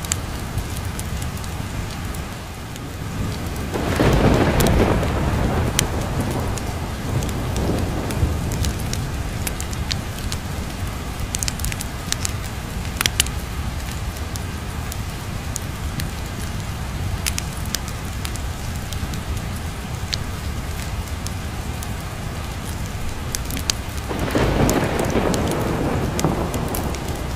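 Thunderstorm ambience: steady rain with two rolls of thunder, one about four seconds in and another near the end, and scattered sharp clicks through the rain.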